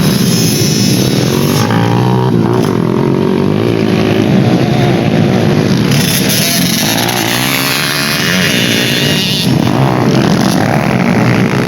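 Racing motorcycle engines at an autocross dirt race, revving hard with pitch rising and falling again and again as the bikes accelerate and back off.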